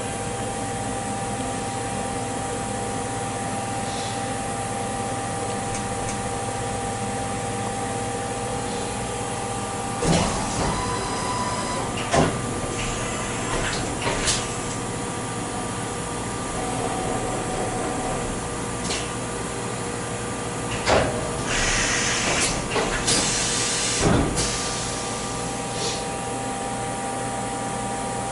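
Machine tool running with a steady hum of several tones. From about ten seconds in come scattered metallic knocks and clicks, with a short hiss and a thump a little after twenty seconds.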